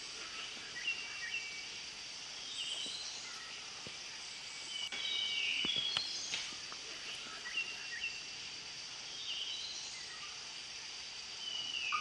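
Songbird song outdoors: short high whistled phrases, some falling in pitch, repeated every couple of seconds over a steady high hiss.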